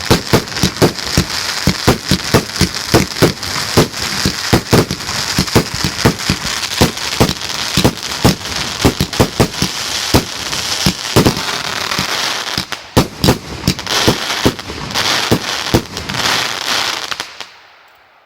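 Fireworks going off in a rapid barrage of bangs, several a second, over a steady crackling hiss. The barrage thins near the end and dies away.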